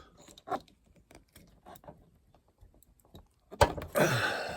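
Small clicks and taps of hands working plastic parts in a car's roof area: the headliner's wiring connector being unclipped through the overhead console. A sharp click comes about three and a half seconds in, followed by a louder scraping rustle of plastic and headliner material.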